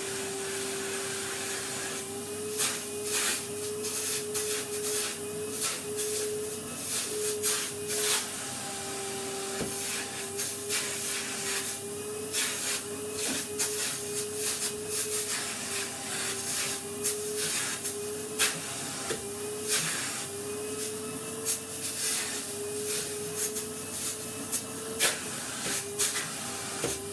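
Vacuum cleaner running steadily with a held motor whine. From about two seconds in, frequent sharp clicks and rattles break over it.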